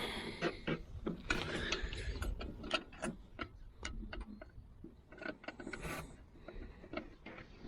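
Metal hand tools clinking and clanking in irregular sharp clicks, as tools are handled and sorted to find a smaller pry bar.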